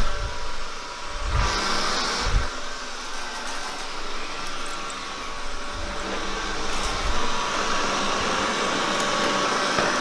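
Roborock S6 Max robot vacuum running: a steady whirr of its suction fan with a thin whine, and a few dull thumps in the first two seconds.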